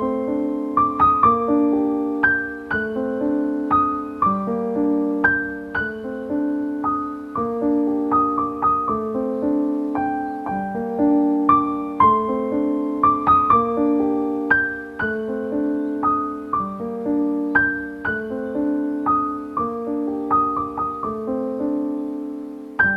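Solo piano music: a gentle melody of struck notes, each fading away, over a repeating low accompaniment.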